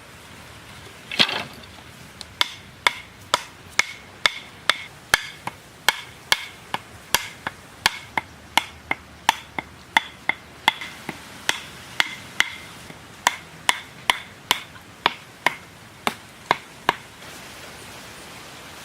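A hammer striking over and over, about two blows a second, each with a short ringing tone, then stopping; near the end a steady hiss takes over.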